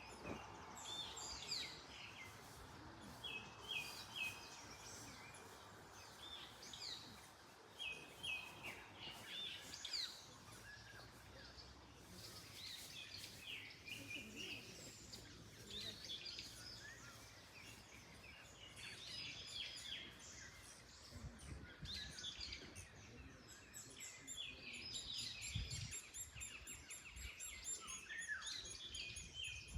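Several birds singing and calling, with many short chirps and trills throughout, over a soft rustle of wind in trees.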